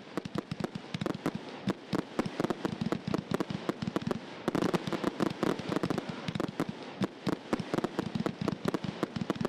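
Fireworks going off: a dense, irregular run of sharp bangs and crackling pops, many per second, with no let-up.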